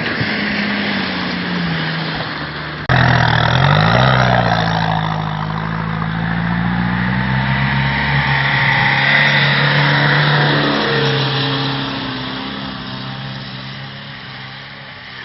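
Motocross motorcycle engine revving, its pitch rising and falling with the throttle. It jumps suddenly louder about three seconds in, then slowly fades toward the end.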